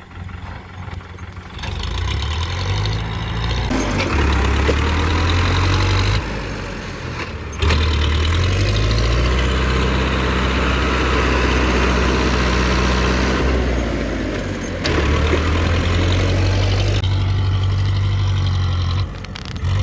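Powertrac Euro 55 Next tractor's diesel engine revving up hard several times and holding high revs under load, while the tractor is stuck in deep mud, with short drops back toward idle between pushes.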